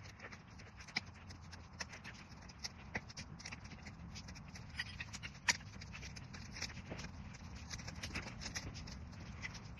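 Wood campfire crackling: irregular sharp pops and snaps over a low steady rumble, with one louder pop about halfway.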